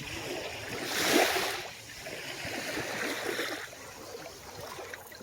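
Small, calm sea waves washing onto the shore: a louder wash about a second in, a softer one around three seconds, and a low hiss of water in between.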